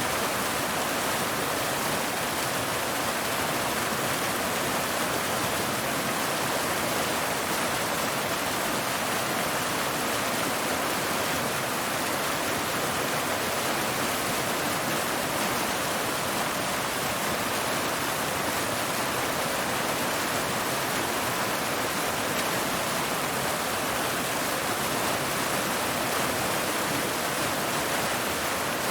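Waterfall: water pouring over rocks in a steady, even rush with no breaks.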